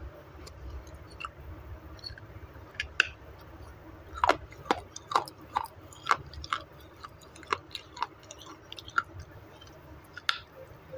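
Baked clay (a 'clay roti') being crunched and chewed close to the microphone: a string of sharp, irregular crunches, coming thickest from about four to nine seconds in.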